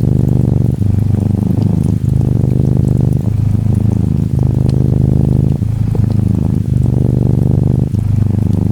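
A Norwegian Forest Cat kitten purring close up, a steady low rumbling purr with a brief break about every second as it switches between breathing in and out. Gentle rain patters faintly underneath.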